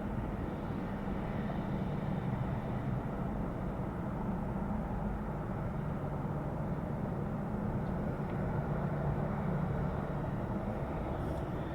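Steady drone of aircraft engines, an even rumble that holds its level throughout.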